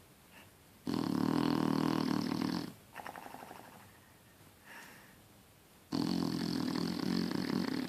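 Shar Pei dog snoring: two loud snores, each about two seconds long and about five seconds apart, with a fainter breath between them.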